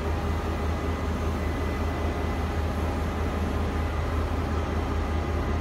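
A TRA E400-series electric locomotive and its passenger coaches pulling slowly out of a station: a steady low rumble of the train running on the rails, with a few faint steady tones above it.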